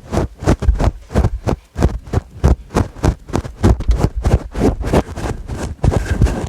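Fingers scratching a fluffy microphone windscreen in quick, aggressive strokes, several a second. Close to the mic, loud and heavy in the bass.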